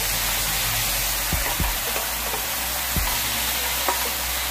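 Beef slices sizzling in oil in a non-stick frying pan while a wooden spatula stirs them, with a few soft knocks of the spatula against the pan.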